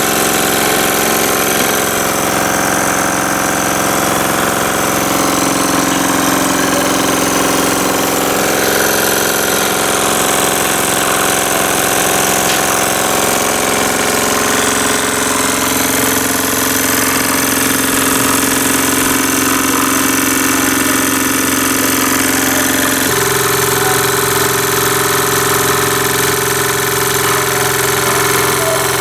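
Jensen slide-valve live-steam model engine running steadily under steam, a continuous mechanical running sound with a steady hum. Its steady note changes abruptly about three-quarters of the way through.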